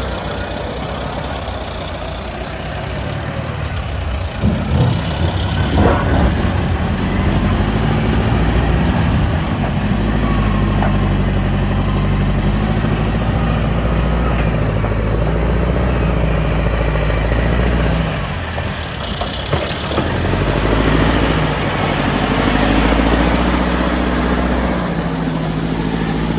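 Diesel engine of heavy earthmoving or crushing machinery running under load, its level rising and falling, with a few sharp knocks about five seconds in and a short dip near the end.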